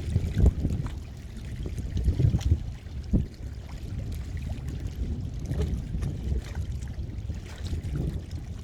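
Sea water lapping and sloshing in small irregular splashes, under a steady low rumble.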